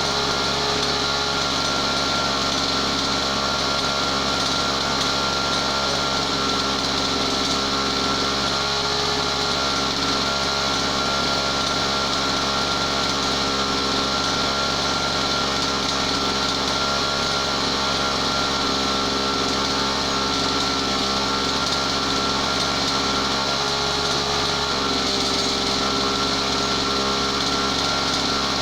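Small two-stroke brush cutter engine running at a steady speed with an unchanging pitch. The owner says this modified engine is near the end of its service life.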